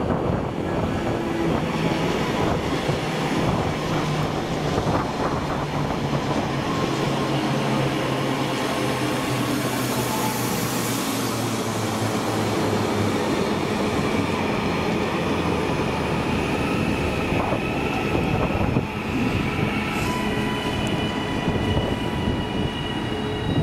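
Train moving through a station: a loud, steady rumble of wheels on rails. From about halfway through, high whining tones creep up in pitch and step higher near the end.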